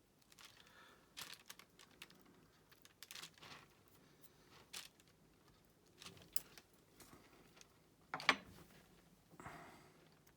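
Faint, scattered taps and clicks of diamond painting work, resin drills picked up with the applicator pen and pressed onto the canvas, with occasional crinkling of plastic; the loudest crackle comes about eight seconds in.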